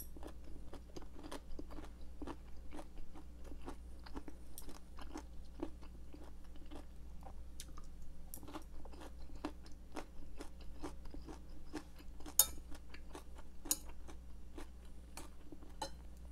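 Close-miked chewing of soft air-fried vegetables such as zucchini and bell pepper: wet mouth clicks and smacks a few times a second, with a second bite taken about halfway through and two sharper clicks about three-quarters of the way through.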